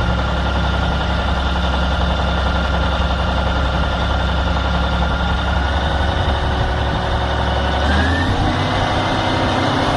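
A heavy vehicle's engine running steadily, with a thin whine that rises in pitch about eight seconds in as the engine's note changes.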